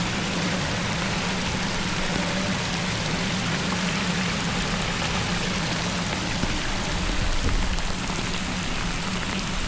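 Steady rush and patter of water, with a low swell of rumbling about seven seconds in.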